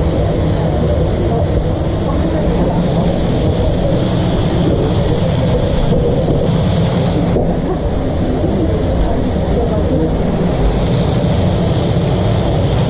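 Steady loud food-truck kitchen noise: a continuous mechanical hum and rumble with a hiss over it, and indistinct voices.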